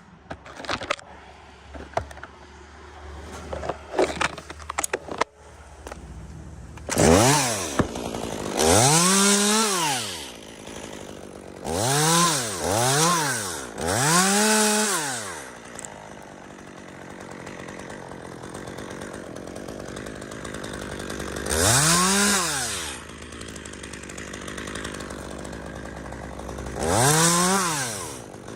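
Chainsaw revved up and let fall back about seven times, its pitch climbing and dropping with each rev, idling steadily between; the first several seconds hold scattered clicks and knocks before the saw is revved.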